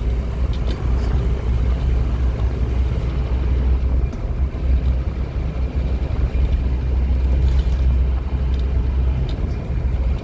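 Scania N230UD OmniCity double-decker bus running along, a steady low engine and road drone with no clear change in pitch, and a few small rattles.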